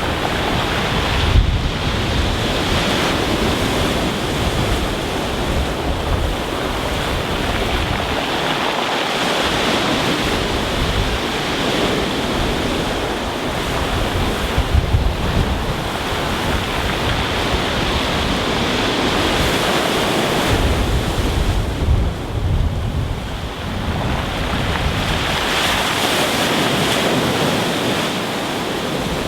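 Rough sea surging onto a stony beach: a continuous rush of surf that swells and eases as waves come in and wash back over the stones. Wind gusts buffet the microphone with low rumbles now and then.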